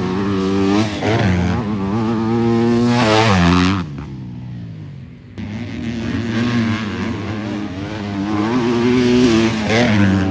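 Motocross race bikes' engines revving hard, pitch climbing and falling with throttle and gear changes. The sound drops away for about a second and a half around four seconds in, then comes back suddenly.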